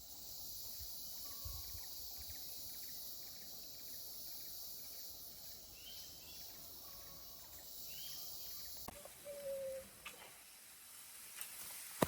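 Tropical rainforest ambience: a steady high-pitched insect drone with short chirping calls repeating about twice a second. About nine seconds in the drone drops away, and a short whistled note and a few sharp clicks follow.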